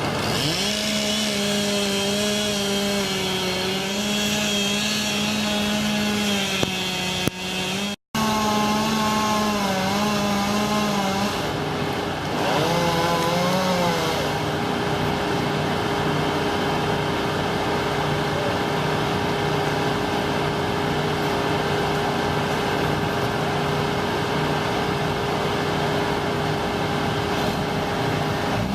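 Chainsaw engine running at high revs, its pitch dipping and recovering now and then and settling lower and steadier for the second half. The sound cuts out for an instant about eight seconds in, then resumes.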